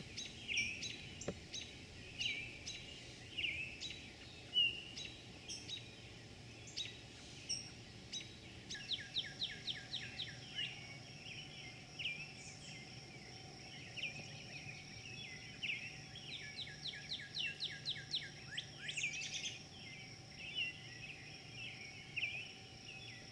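Small birds chirping, short chirps about once a second, joined about a third of the way in by rapid trills of quick falling notes, over a steady high tone.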